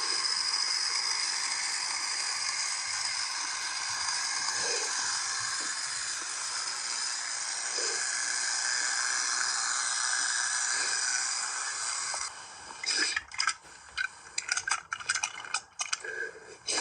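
Two battery-powered toy train engines running along plastic track with a steady whirring motor-and-gear sound. About twelve seconds in, the whir stops and gives way to scattered clicks and rattles.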